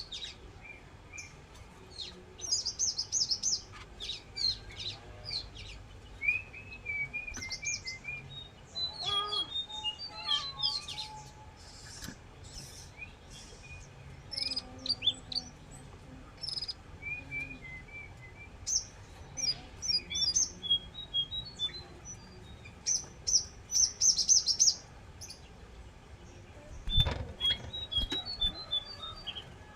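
Jongkangan songbird singing in full voice: bursts of high chirps and quick twittering trills in varied phrases, repeated on and off with short pauses.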